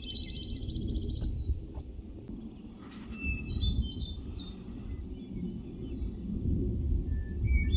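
Small songbirds singing: a rapid high trill in the first second, then several short whistled phrases a few seconds in and again near the end. Wind rumbles on the microphone underneath.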